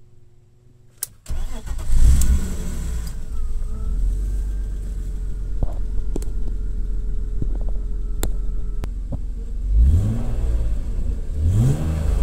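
BMW M50B25 2.5-litre straight-six in an E30, starting about a second in, catching with a surge and settling to a steady idle around 1000 rpm. Near the end it is blipped with quick revs that rise and fall.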